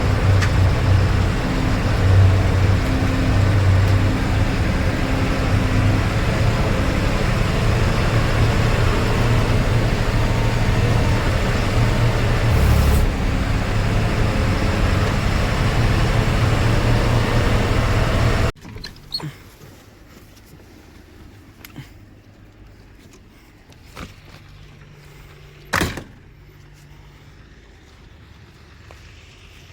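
Tractor engine running steadily with a strong low hum, cutting off abruptly about eighteen seconds in; after that only a quiet background with a few short knocks.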